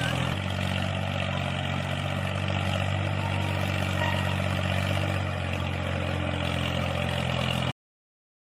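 Tractor engine idling steadily, an even low hum with a slight change in pitch just after the start. It cuts off abruptly near the end.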